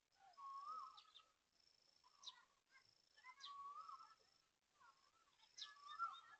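Faint birdsong: a wavering, warbling call repeated three times about every two and a half seconds, with thin high whistles and quick high chirps in between.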